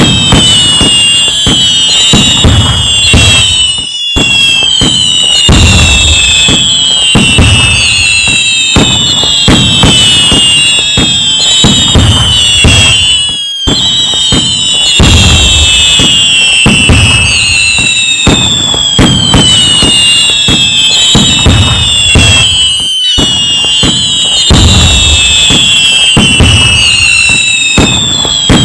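A dense fireworks barrage: many overlapping whistles falling in pitch over continuous booms and crackling bursts. There are brief dropouts about every nine seconds.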